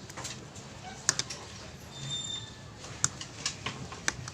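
Light, irregular clicks and taps of small metal carburettor parts and hand tools being handled, about half a dozen separate clicks with pauses between them.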